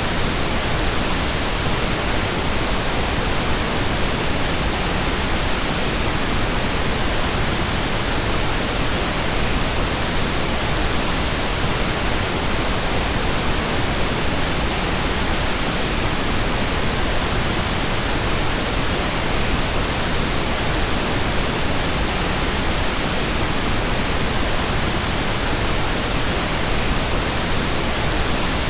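Steady, unchanging pink noise: an even hiss spread across the whole range of pitch.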